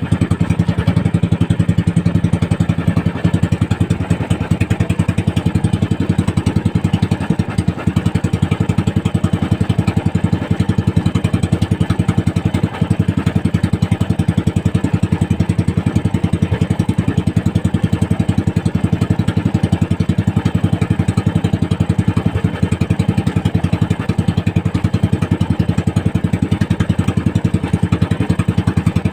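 Small fishing boat's engine running steadily at a constant speed, an even, unbroken putter.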